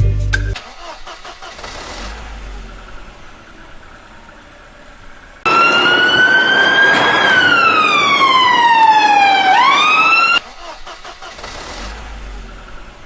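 Cartoon vehicle engine sound effect: quiet low rumbling, then about halfway through a loud whine that climbs a little, drops in pitch for a couple of seconds, sweeps sharply back up and cuts off suddenly.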